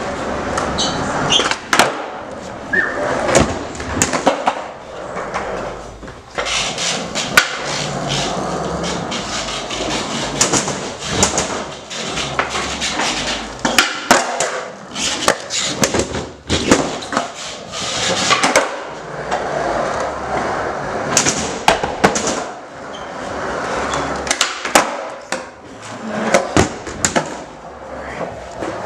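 Skateboards rolling on a hard floor, with many sharp clacks of tails popping and boards landing and slapping down.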